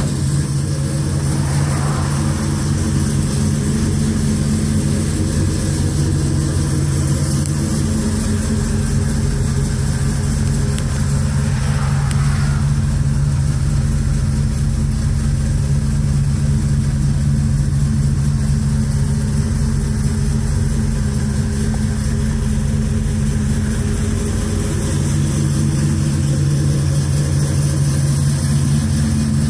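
1955 Chevrolet truck engine idling steadily, its pitch shifting slightly a few times.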